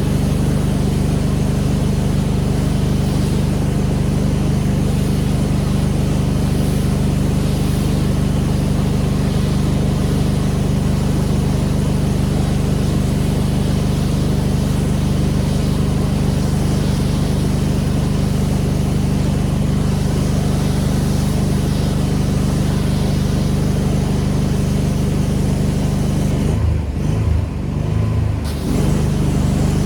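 Pressure washer running steadily: its engine drones under the hiss of the high-pressure spray. Near the end the spray hiss cuts out for about two seconds while the engine note wavers, then the spray comes back.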